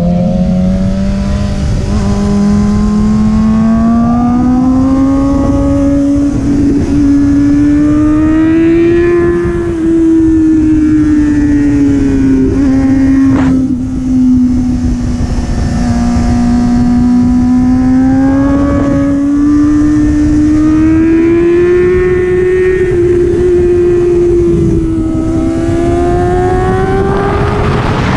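Sport motorcycle engine running at speed, its pitch climbing and easing off slowly several times with the throttle, over a low rumble of wind on the microphone. A single sharp click about halfway through.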